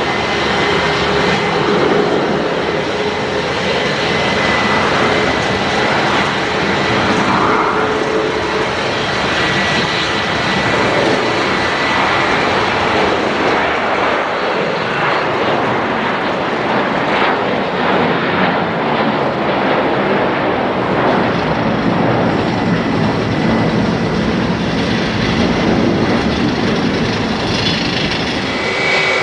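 Jet airliner engines running, a loud steady noise with a thin high whine held through it.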